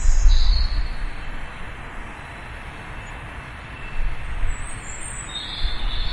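Birds chirping in short high bursts, at the start and again near the end, over a steady outdoor background of low rumble and hiss that is loudest in the first second.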